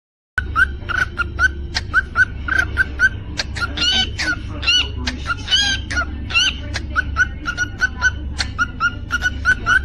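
Cockatiel chirping: a quick series of short whistled chirps, two or three a second, with a few longer rising whistles in the middle. A steady low hum runs underneath.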